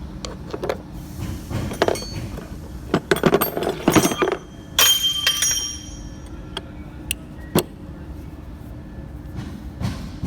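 Metal tools and parts clinking and knocking irregularly, busiest a few seconds in, with one sharp knock about halfway that leaves a metallic ring, over a steady low hum.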